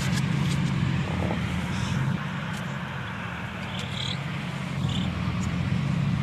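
Car engine idling with a steady low hum, while birds give a few short, high chirps over it.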